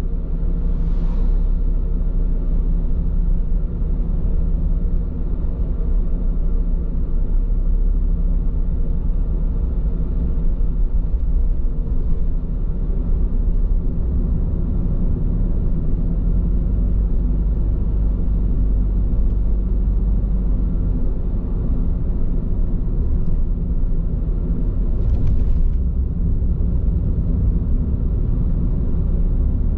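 Steady low road rumble inside a moving car's cabin from its Bridgestone Regno tyres rolling on the road, with a brief hiss about a second in and again near the end.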